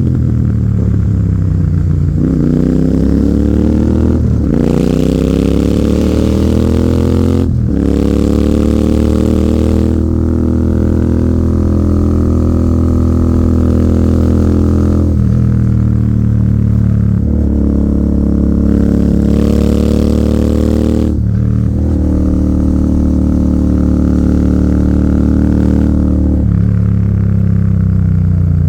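Royal Enfield Continental GT 650's parallel-twin engine through an AEW 103 aftermarket exhaust, ridden hard: it slows at first, then accelerates again and again. The pitch climbs and breaks off abruptly at each gear change, about seven times.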